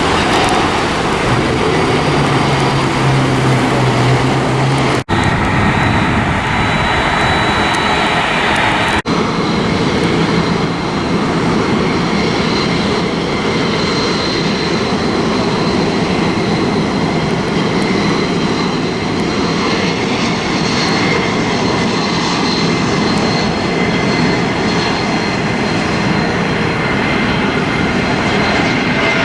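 Airliner engines running loud and steady at close range, a broad roar with a thin high whine over it. The sound drops out for an instant twice, about five and nine seconds in.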